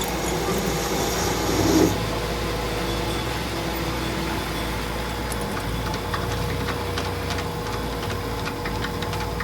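A machine running steadily with a constant hum and low rumble. It swells briefly louder about two seconds in, and there are scattered light clicks in the second half.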